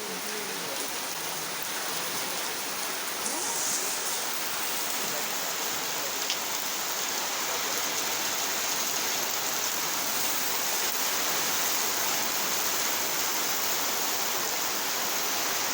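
Heavy rain falling in a steady downpour, an even hiss of rain on surfaces that grows slightly heavier over the first few seconds.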